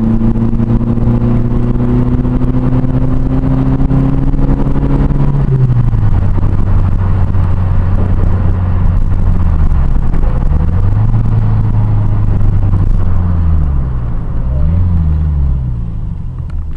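Toyota Starlet KP61's 4K-E four-cylinder engine heard from inside the cabin while driving: the revs hold and climb slightly for about five seconds, then drop, then twice dip and pick back up. The engine gets quieter near the end.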